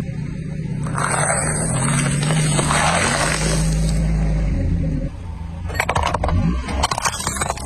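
Car engine running slowly with a steady low tone, then, from about six seconds in, a quick series of sharp cracks and crunches as something brittle is crushed under a tyre.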